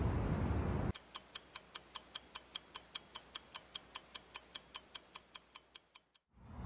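Rapid, even ticking of about five sharp clicks a second, starting about a second in and fading out near the end.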